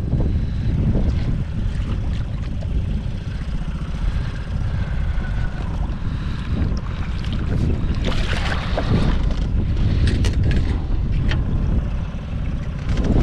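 Wind rumbling steadily on the microphone over water, with a burst of hissing noise about eight seconds in and a few sharp clicks after it.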